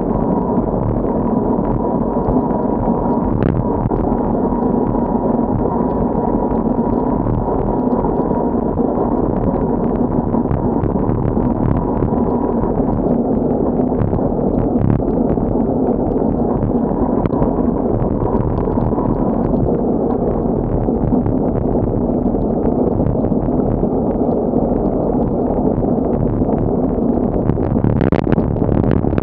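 Typhoon wind buffeting the microphone of a camera on a moving bicycle: a loud, steady low noise with scattered ticks.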